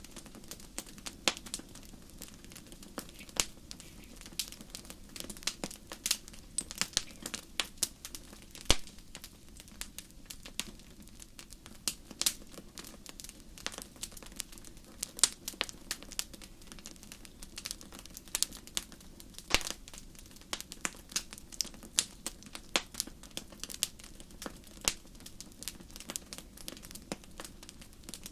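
Fire in a fireplace crackling: a dense, irregular run of small snaps and pops, with a few louder pops standing out, over a soft steady low rush.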